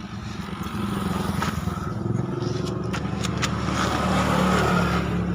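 Truck engine running, getting louder toward a peak about four and a half seconds in and then easing slightly. A few sharp clicks occur in the middle.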